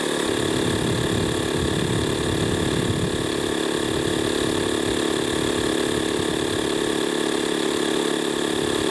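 Audew 12-volt portable tire-inflator air compressor running steadily with an even, unchanging tone. It is pumping up a tire and is close to its 30 psi automatic shut-off.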